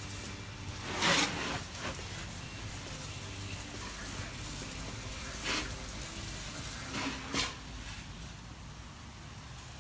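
Garden hose spray nozzle hissing as water spatters onto a car's windshield and hood. There are three brief louder surges: the loudest about a second in, one near the middle and one past seven seconds.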